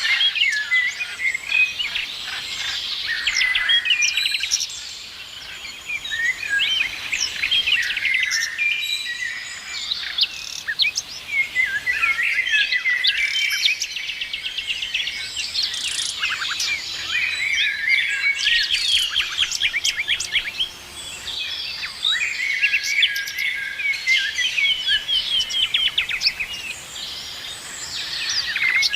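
Many small birds chirping, trilling and whistling at once, their calls overlapping densely with only brief lulls.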